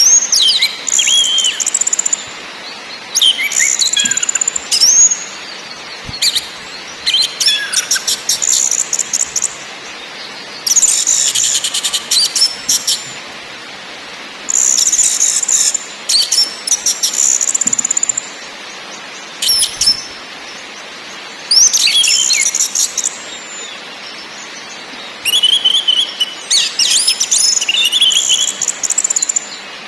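Orange-headed thrush (anis merah) singing: about ten phrases of quick, varied whistled and chattering notes, each a second or two long, separated by short pauses, over a steady background hiss.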